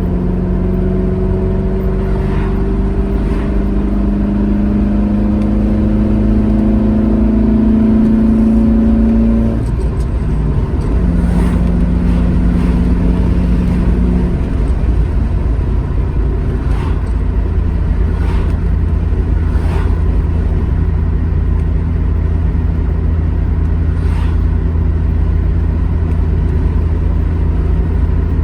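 Classic Alfa Romeo GT Junior's twin-cam four-cylinder engine on the road, its pitch rising steadily under acceleration for about ten seconds, then dropping sharply and running at a steady pitch for the rest.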